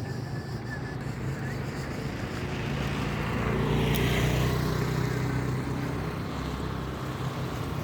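Road traffic with a motor vehicle's engine passing close by, growing louder to a peak about four seconds in and then fading.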